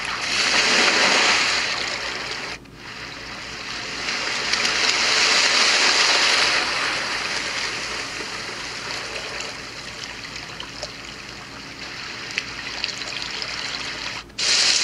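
An AVANTEK white noise machine's speaker plays its recorded ocean-waves track: a hiss of surf that swells and ebbs. It cuts out briefly about two and a half seconds in, and again near the end, where the sound changes to the next track.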